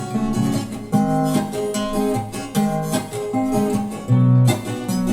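Acoustic guitar strumming chords, with a new chord roughly every second, as the instrumental close of a song.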